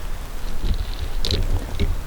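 Wind buffeting the microphone in uneven low gusts, with a few brief faint high-pitched ticks or chirps about a second in and again near the end.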